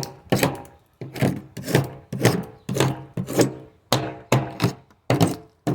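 Hand paint scraper scraping old paint off a surface in quick repeated strokes, about two to three a second, each starting sharply and fading: surface prep before repainting.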